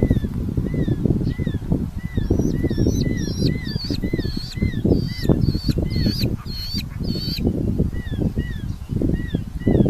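Red-footed falcon nestlings calling, a steady string of short, thin, repeated calls at about two to three a second. In the middle stretch a run of louder, harsher, higher calls joins in for about five seconds. A constant low rumble sits underneath.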